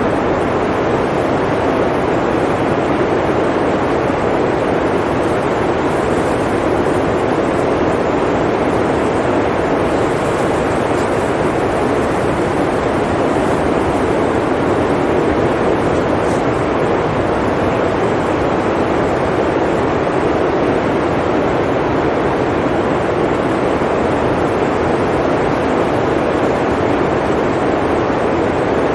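Blizzard wind blowing in a steady, even rush, with no gusts or breaks.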